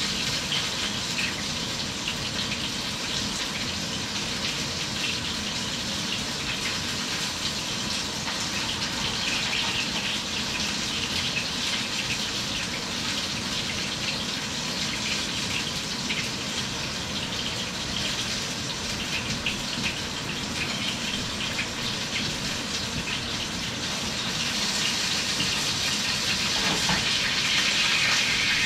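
Chicken sizzling in a hot pan on the stovetop: a steady frying hiss with fine crackle, getting louder in the last few seconds.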